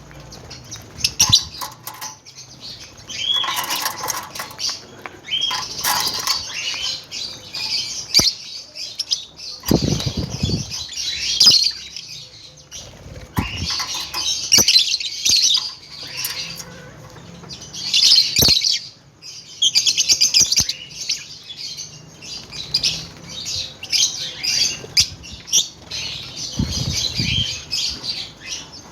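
A flock of lovebirds chattering in shrill bursts of chirps, with wing flaps, sharp clicks and a couple of low thuds.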